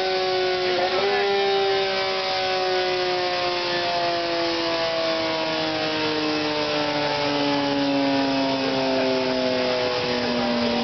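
Yamaha R6 inline-four engine running on a motorcycle roller dyno, its revs sinking slowly and steadily. There is a brief hitch in pitch about a second in.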